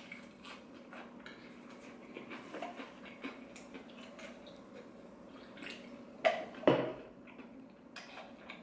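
Faint chewing and crunching of a crispy fried chicken strip, with small scattered clicks over a low steady hum, and a drink taken from a soda can. Two short, louder knocks come about six and a half seconds in.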